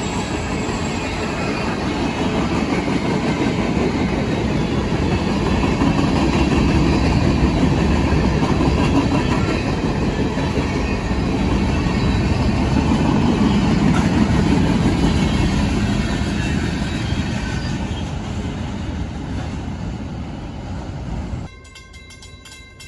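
CSX freight train rolling past, a steady rumble of railcars and wheels on the rails that slowly fades. About a second and a half before the end it cuts off suddenly to quiet background music.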